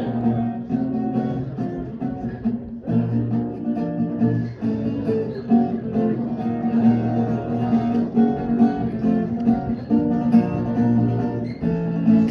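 Acoustic guitar playing a continuous run of picked notes and chords.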